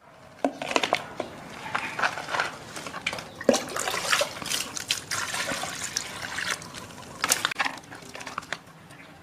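Water splashing and trickling, with irregular sharp knocks and splashes throughout.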